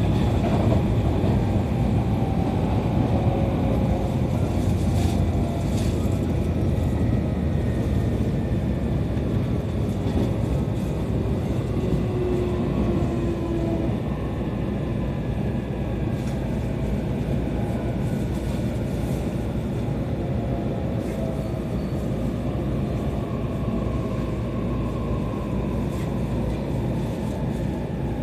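E531 series electric train running, with a steady rumble and a motor whine that falls slowly in pitch as the train slows. A few light clicks, likely from the wheels, come through over the rumble.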